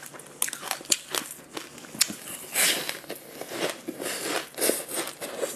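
Biting and chewing into a yellow food crusted with black sesame seeds: a run of short, sharp crunches and crackles, with longer crunchy chews from about two and a half seconds in.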